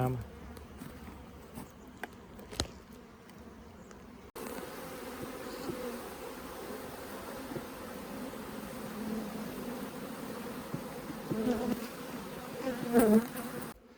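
Honeybees buzzing around an open hive: a steady hum that gets louder about four seconds in, with louder swells near the end as bees pass close.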